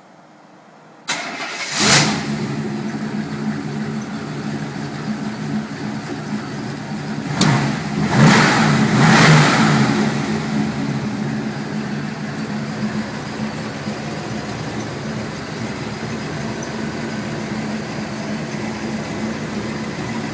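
Twin-turbo (GT35), fuel-injected 355 cubic-inch small-block Chevy V8 in a C10 pickup cranking briefly and firing up about two seconds in, then idling. Around eight to ten seconds in the throttle is blipped twice, the revs rising and falling, before it settles back to a steady idle.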